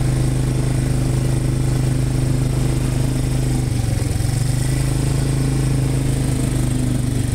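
A small engine running steadily close by, with a slight change in its note about four seconds in.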